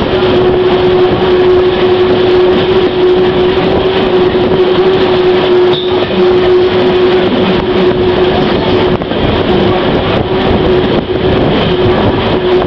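Train running along the track, heard through an open side window: a dense, steady rolling rail noise with a constant humming tone over it.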